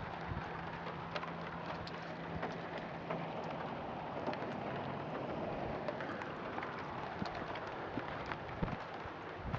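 Steady outdoor hiss with scattered small ticks and clicks; a faint low hum stops about three and a half seconds in.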